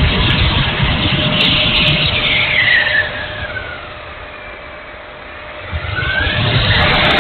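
Electric ducted-fan whine of a 70 mm RC jet making a pass, dropping in pitch as it goes by and fading away. It comes back about six seconds in with the whine rising and loud again.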